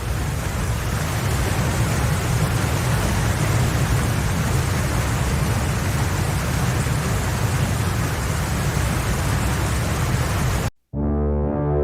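Floodwater rushing through the breached Nova Kakhovka dam: a steady, noisy rush with a strong low rumble. It cuts off suddenly near the end.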